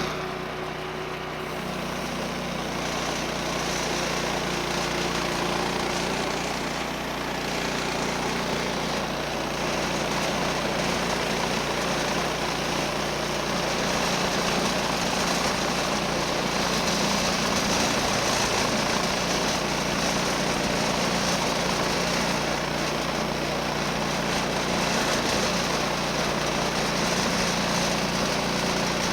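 Woodland Mills HM130 bandsaw mill with its 14 HP Kohler engine running steadily under load while the band blade saws a 1-inch board off a log.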